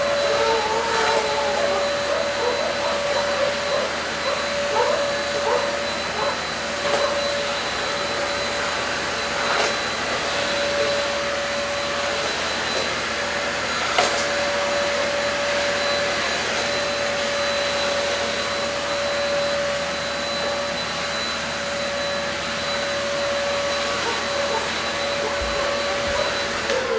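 Deerma vacuum cleaner running steadily on a floor mat, a constant whine over rushing air as it sucks up cat fur and dust, with a few sharp ticks along the way. At the very end the motor's pitch starts to fall as it is switched off.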